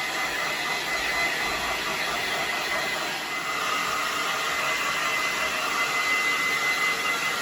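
Hand-held hair dryer running steadily with a thin high whine, blow-drying a freshly washed parrot.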